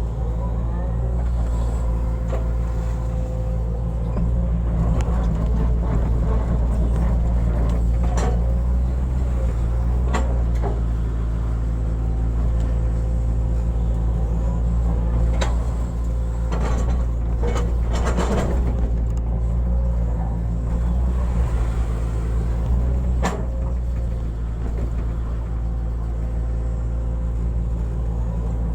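Hitachi excavator's diesel engine running steadily under working load, getting a little louder about four seconds in, with a few short sharp knocks along the way.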